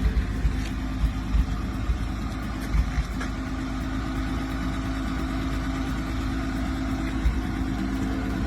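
1953 Plymouth Cranbrook's flathead six-cylinder engine idling, a steady low rumble with an uneven pulse. Its hum grows a little stronger about three seconds in.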